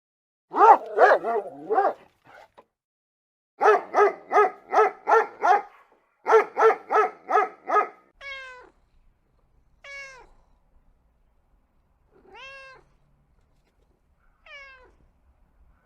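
Cat meowing: three quick runs of short, rapid calls in the first half, then four single thin meows about two seconds apart.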